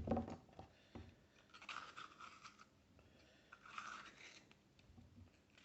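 Small kitchen knife chopping a bell pepper on a chopping board: faint crisp crunching cuts in two short spells about two seconds apart, with a few light knocks of the blade near the start.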